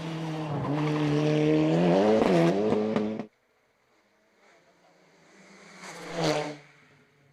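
A race car's engine at high revs, its pitch climbing, cuts off abruptly about three seconds in. Then another race car is heard approaching, passes loudest near the end, and fades away.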